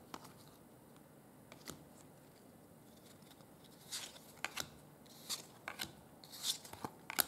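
Faint scraping and rustling of trading cards being handled and slid against one another. It is nearly quiet at first, and brief scrapes come from about four seconds in.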